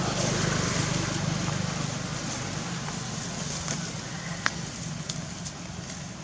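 A motor running steadily with a low hum and slowly fading, with a few sharp clicks, the loudest about four and a half seconds in.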